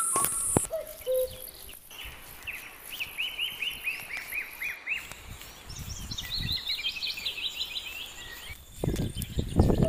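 A bird calling in a fast series of short chirps, about five a second, then a second run of higher chirps a couple of seconds later, over outdoor background noise. A few low thuds come near the end.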